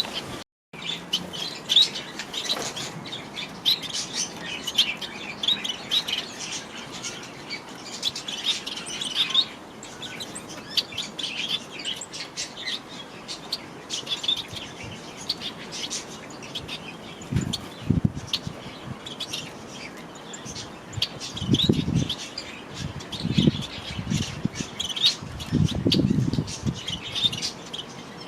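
Aviary birds, budgies, parakeets and finches, chirping and twittering continuously in many quick high calls. A few short low thumps come in the second half.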